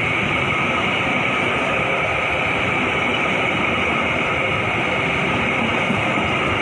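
KAI passenger train coaches rolling past close by: a loud, steady noise of wheels on rail, even throughout with no distinct rail-joint clicks.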